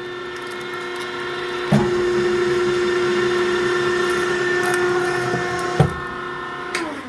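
Firewood-cutting machine's motor running with a steady hum, with two sharp knocks at about two and six seconds in. Near the end it is switched off and its pitch falls as it spins down.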